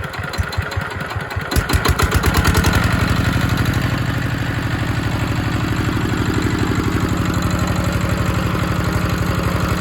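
ZR185 single-cylinder direct-injection diesel running from a cold start at −4 °C. About a second and a half in, its firing quickens and grows louder, and it then settles into a steady, faster run.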